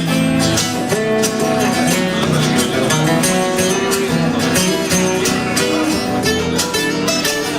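Instrumental break of a live band performance, led by guitar playing over a steady beat.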